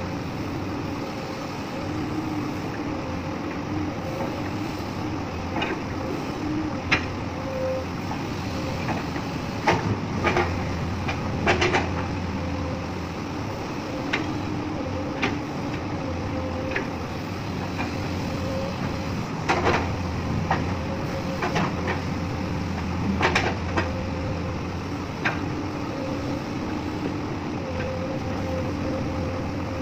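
Excavator with a lifting magnet at work: its diesel engine runs steadily, with a dozen or so irregular sharp clanks as iron chips are dropped and handled during truck loading.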